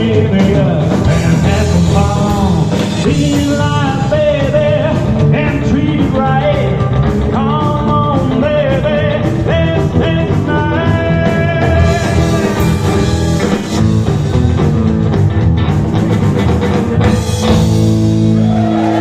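Rock and roll band playing the end of a song, with a steady drum beat under moving lead lines, closing on a held chord near the end.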